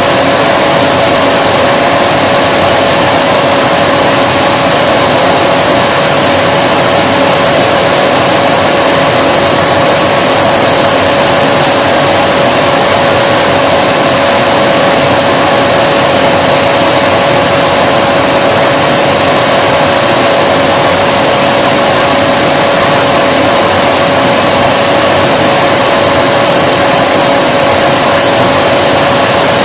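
Vacuum cleaner running steadily: an even rushing of air with a constant motor whine held at one pitch, no change in level throughout.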